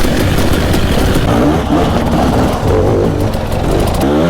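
Two-stroke dirt bike engine revving, its pitch rising and falling several times, with a sharp rev near the end.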